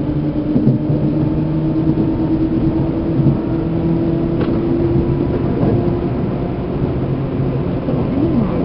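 Seibu Railway New 2000 series electric train car (motor car MoHa 2291) running, heard from inside the car: continuous rumbling wheel and track noise with a steady hum that fades out about six seconds in.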